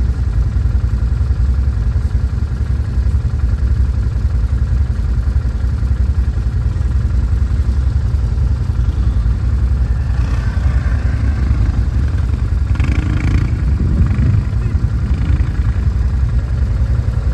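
Quad bike (ATV) engine running steadily, with no sharp revs.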